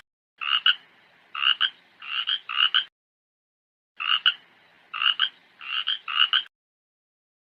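Frog croaking: two runs of quick, paired croaks, each run lasting about two and a half seconds, with a pause of about a second between them.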